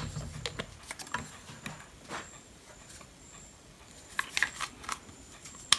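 Scattered light clicks and taps of small tools and a circuit board being handled on a workbench, with a faint high whine coming and going.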